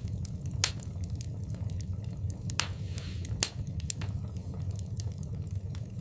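Wood fire burning in a fireplace: a steady low rumble of flames with irregular sharp crackles and pops, the loudest a little under a second in and about three and a half seconds in.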